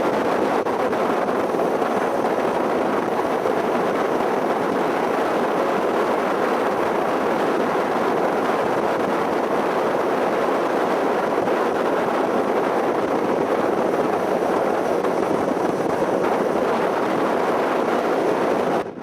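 Steady rush of wind and road noise on a moving motorcycle, with no distinct engine note standing out. It drops off sharply near the end.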